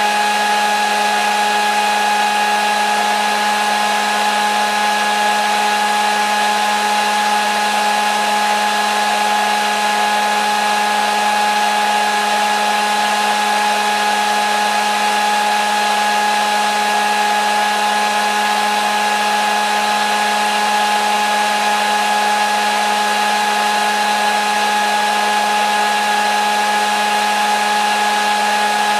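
Hair dryer running steadily, a constant motor whine with even rushing air and no change in speed.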